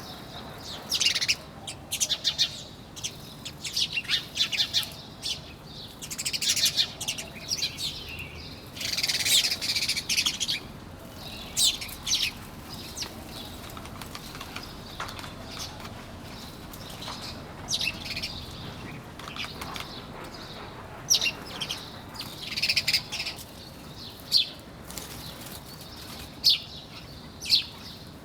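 Small birds chirping and tweeting in quick clusters of short high-pitched notes, several birds calling over one another, with brief pauses between bursts.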